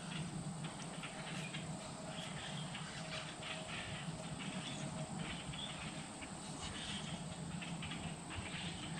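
Faint outdoor ambience: a low steady hum under soft, scattered light ticks and rustles.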